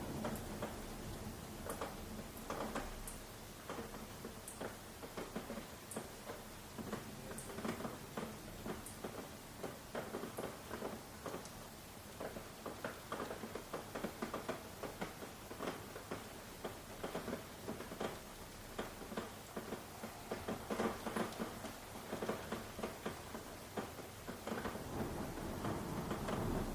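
Rain falling, with drops pattering irregularly on a surface.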